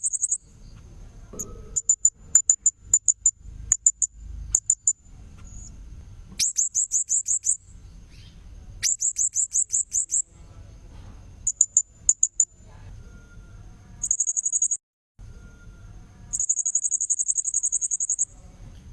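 Blue-crowned hanging parrot (serindit) calls played as a bird-trapping lure: very high-pitched rapid trills of short notes, each lasting one to two seconds, alternating with shorter clusters of quick ticking chirps. A thin steady high tone and a low rumble run underneath.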